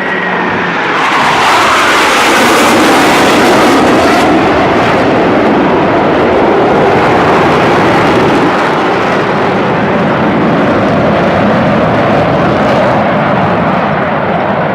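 Blue Angels F/A-18 Hornet jets making a low pass: a loud jet roar builds about a second in, peaks a few seconds later, then carries on as a long rumble that slowly eases.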